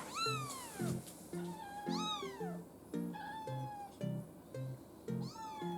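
A young kitten, about three weeks old, meowing: three high calls, each rising then falling, near the start, about two seconds in and near the end. Background music with plucked notes plays throughout.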